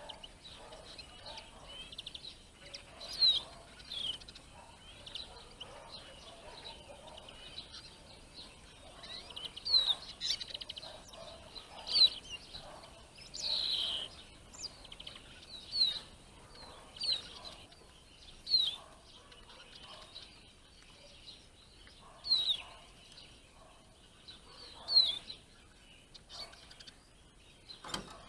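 Eurasian siskins calling: about a dozen short, sharp, high chirps, irregularly spaced, over a faint steady background twitter.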